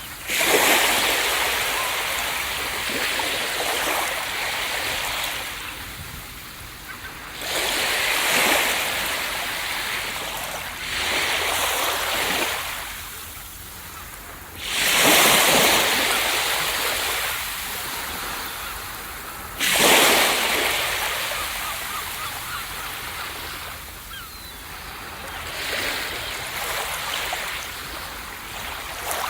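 Ocean waves breaking on a beach: about six surges, each a sudden crash that fades into a long hiss of washing surf, the loudest two about halfway through.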